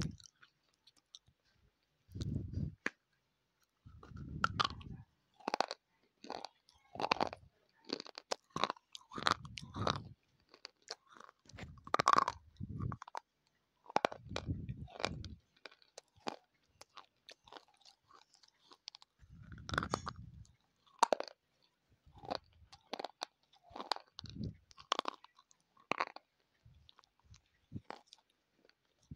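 A white clay bar being bitten and chewed right at a lapel microphone: sharp, irregular crunching snaps with deeper chewing bursts every few seconds.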